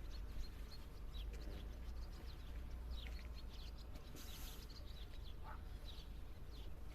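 Small songbirds chirping, with many short high chirps scattered throughout, over a low steady rumble.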